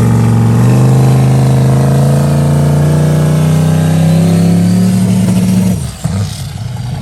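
Vehicle engine held revved, its pitch climbing slowly and steadily for about six seconds, then dropping off suddenly near the end.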